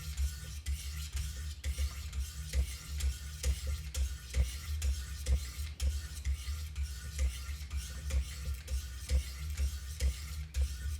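Wicked Edge sharpening stones stroking along the edge of a CPM-M4 steel knife blade, a steady run of short scrapes at about two a second, over a low steady hum.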